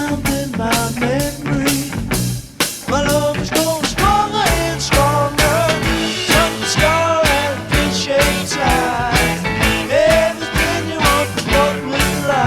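1960s psychedelic rock recording playing: a steady drum-kit beat under electric guitar and bass, with a lead line that bends and slides in pitch.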